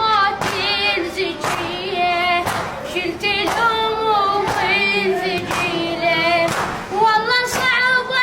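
A high voice singing a long, wavering, ornamented melody, with a sharp beat about once a second.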